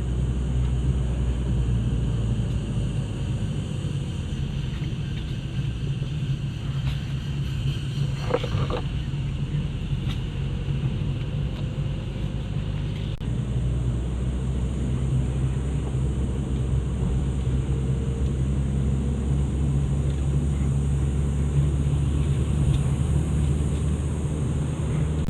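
A vehicle engine running steadily while driving, with a constant high insect drone from the forest over it. A brief higher-pitched call cuts through about eight seconds in.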